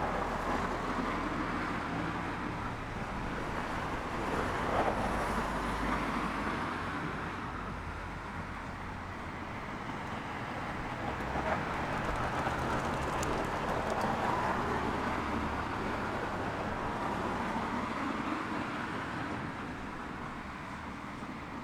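Outdoor urban ambience: distant road traffic as a steady wash of noise that slowly swells and fades.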